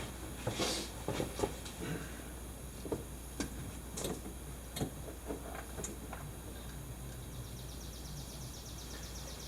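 Scattered light clicks and knocks of hands handling tools and parts on an ATV during an oil change, irregular and a second or so apart, over a low steady hum.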